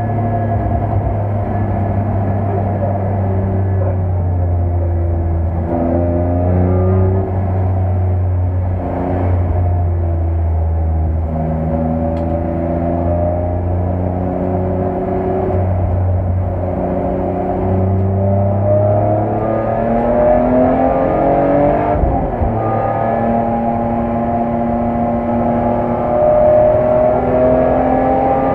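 BMW E46 M3's S54 straight-six engine heard from inside the cabin under hard acceleration, its pitch climbing through each gear and falling back at every upshift.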